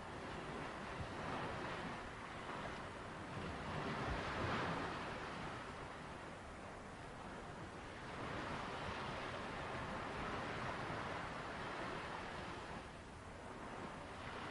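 Sea waves breaking and washing onto a beach, the surf swelling and fading in slow surges every few seconds.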